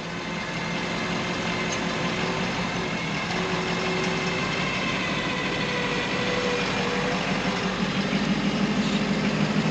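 Truck engine running steadily with a faint steady whine above it during a winch pull on a stuck truck, getting a little louder near the end.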